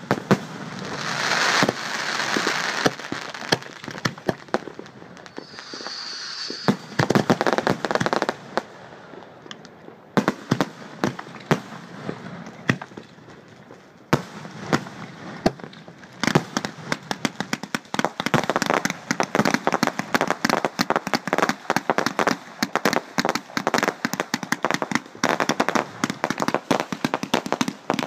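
Fireworks display going off overhead: aerial shells bursting with sharp bangs and a hissing stretch near the start. From about halfway through, a dense, rapid crackle of many small reports runs on to the end.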